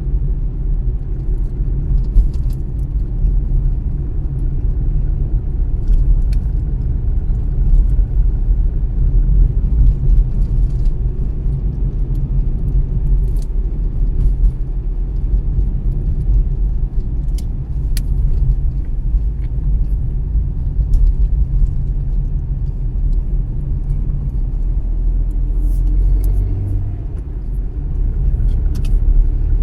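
Car driving along a road: a steady low rumble of engine and tyres, with a few faint clicks now and then.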